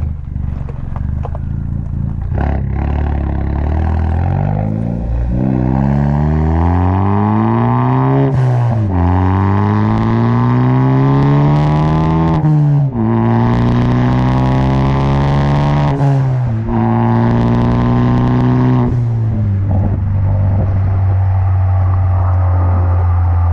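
2018 Ford Focus ST's turbocharged four-cylinder, muffler and resonator deleted, accelerating through the gears. The engine note climbs in pitch and drops at each of four upshifts, then holds steady at a cruise.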